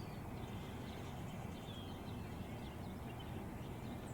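Field recording: a few faint, short, high bird calls, each falling in pitch, scattered over a steady low background rumble.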